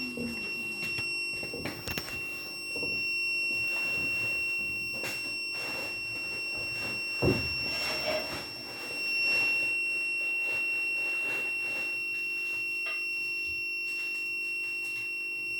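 Power inverter's alarm buzzer sounding one continuous high-pitched beep tone, the warning of an inverter left faulty by a lightning strike. A single knock about seven seconds in.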